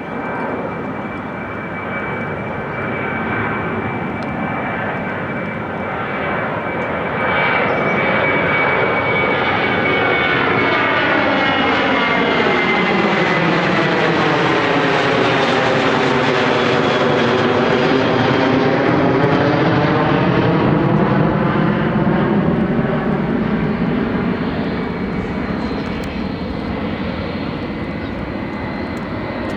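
Jet airliner passing close by. Its engine noise swells to a peak past the middle and eases off near the end, with a thin high whine that slowly drops in pitch and a sweeping, phasing rush as it goes past.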